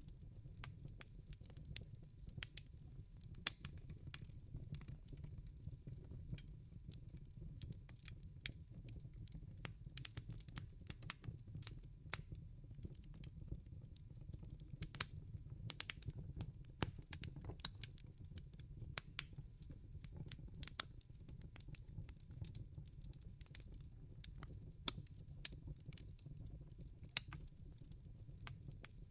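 Wood fire crackling, with many sharp, irregular pops and snaps over a low, steady rumble of the burning fire.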